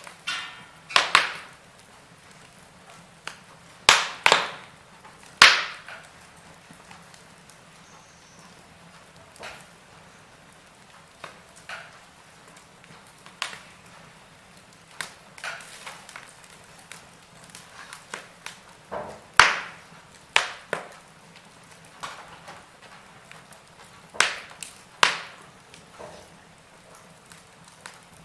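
Wood fire crackling: irregular sharp pops and cracks from the burning logs, some close together in pairs, over a faint steady hiss of the flames.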